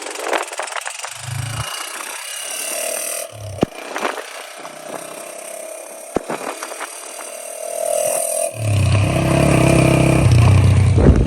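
Motorcycle engine revving in short bursts, then running hard for the last two or three seconds.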